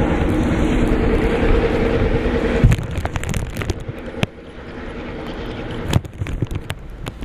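Train locomotive passing close by with a steady engine rumble that drops off sharply about two and a half seconds in. A quieter rumble follows, broken by scattered sharp clicks and knocks.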